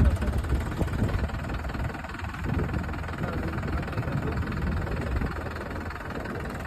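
Tractor engine running with a steady low rumble.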